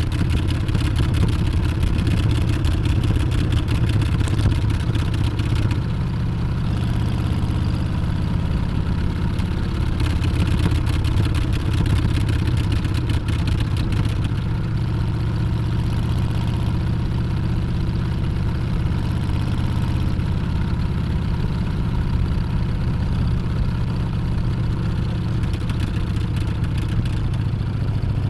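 Harley-Davidson Street Bob's Milwaukee-Eight 114 V-twin running steadily under way, its deep low exhaust note the loudest part, over a hiss of wind and road noise that eases a few times.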